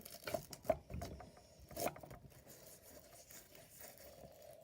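A scatter of small sharp clicks and knocks in the first two seconds, as of objects being handled, then a faint steady hum.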